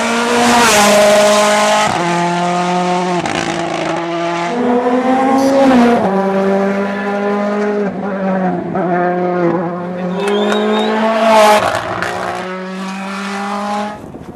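Rally car engine running hard on a stage, its pitch jumping up and down every second or two with gear changes and lifts, fading near the end.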